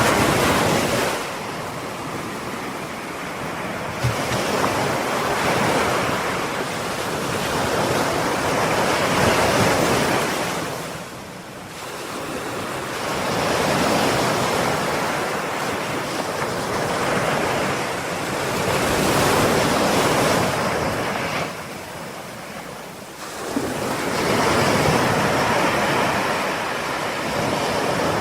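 Ocean surf: waves break in turn about every ten seconds, each surge coming in suddenly and washing out into a short lull before the next.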